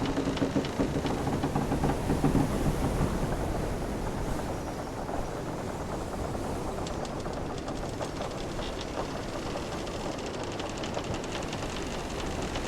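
Wooden sailing ship's timbers creaking over a steady wash of ocean waves. A drawn-out, louder creak comes in the first few seconds, then smaller rapid ticks and clicks of the wood.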